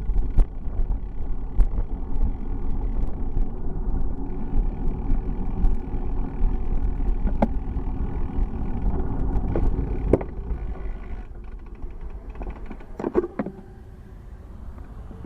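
Wind buffeting and road rumble on a camera carried on a moving bicycle, with scattered sharp knocks and rattles from bumps. The noise eases about ten seconds in, and a few knocks follow near the end.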